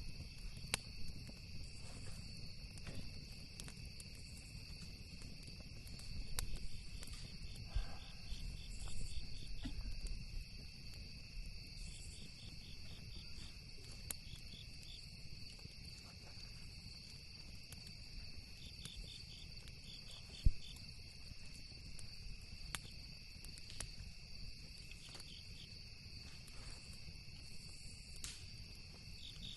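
Crickets trilling steadily, some chirping in quick pulses, over a campfire crackling with scattered sharp pops, one louder pop about two-thirds of the way through. A low rumble runs underneath.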